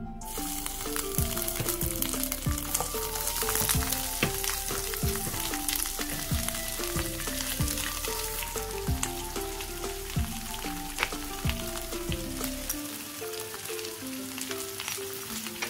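Curry leaves and pandan (rampa) hitting hot oil and sizzling, then a panful of sliced red onions frying in the oil, a steady sizzle with scattered sharp pops. Background music with a steady beat plays under it.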